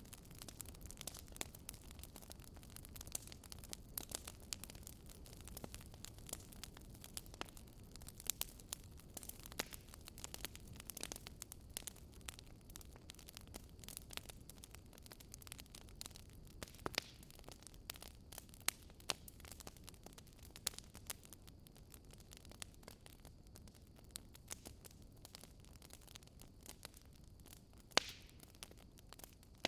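Wood campfire crackling, with frequent sharp pops and snaps over a low, steady rumble. One louder snap comes near the end.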